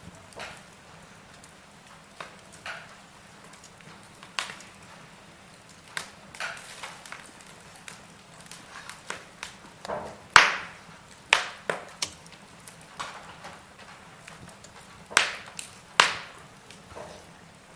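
Wood logs burning in a fireplace, crackling and popping: irregular sharp pops, a few louder snaps among them, over a faint steady hiss.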